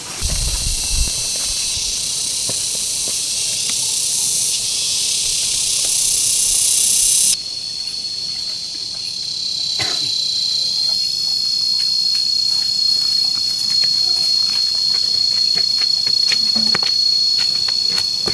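Insects calling in a loud, steady, high-pitched buzz. About seven seconds in, the sound switches abruptly to a single steady high whine with overtones, with a few faint clicks scattered through it.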